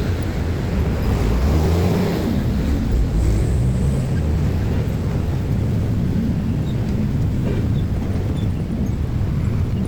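Steady low rumble of passing vehicles, with wind noise on the microphone.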